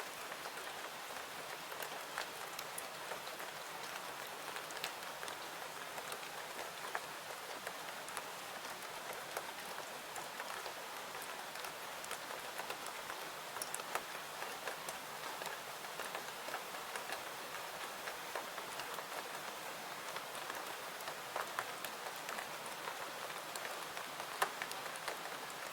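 Steady rain, a soft even hiss, layered with scattered sharp crackles of a wood fire throughout.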